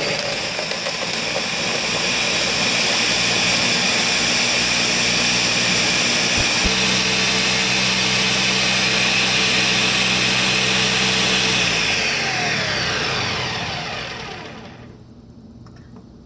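Countertop blender running at full speed, blending a smoothie of fruit, greens and almond milk. About twelve seconds in it is switched off and the motor winds down with a falling whine, fading out by about fifteen seconds.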